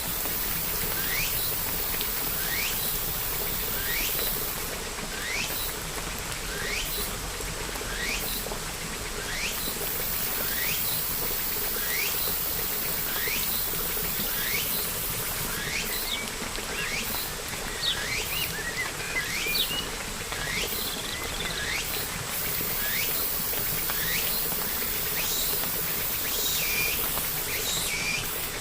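A bird repeating a short rising chirp about every two-thirds of a second, with a few quicker twitters in the middle, over the steady hiss of rain.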